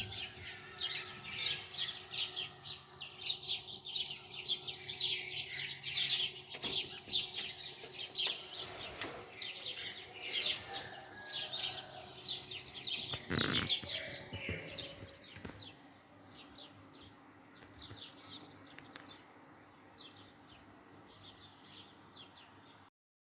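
Birds chirping in many quick, overlapping calls that thin out in the second half, with a single knock about halfway through. The sound cuts off suddenly just before the end.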